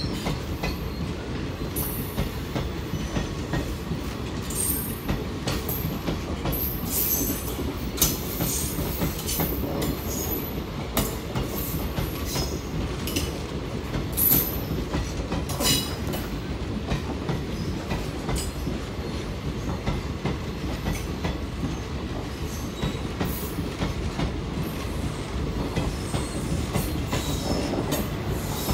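Passenger coaches of a departing express train rolling past, wheels clattering steadily over the rail joints, with short high-pitched wheel squeals and screeches throughout and louder clanks about eight and fourteen seconds in.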